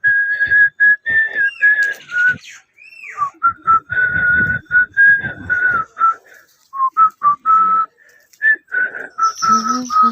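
A person whistling a melody: a clear single tone moving through short and held notes, with a brief break near the end.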